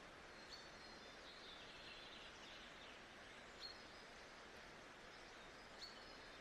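Faint nature-sound ambience: a steady hiss with small birds chirping, short high calls coming a few times, about half a second in, in a cluster around two seconds, and again later.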